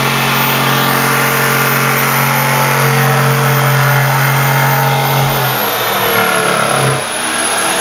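Electric jigsaw running and cutting through a wooden board, a steady motor hum over the rasp of the blade. The low hum drops away about five and a half seconds in and the sound changes.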